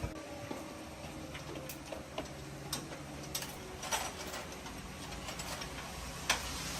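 Irregular light clicks and taps, about a dozen, the loudest near the end, over a steady low hum.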